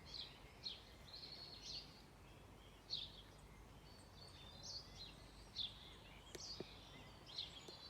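Songbirds singing at dusk: short, high chirps repeated every half second or so over a faint background hiss, with a couple of faint clicks near the end.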